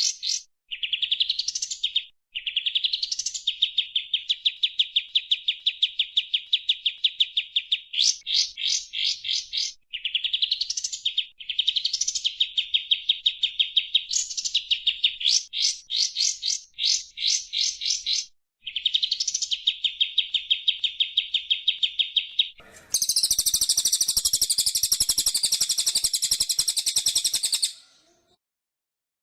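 Songbird song from a bird-tutor recording: phrases that open with a short rising note and run into a fast, even trill, repeated with brief breaks. About 23 seconds in a harsher, buzzier sound takes over for about five seconds, then stops.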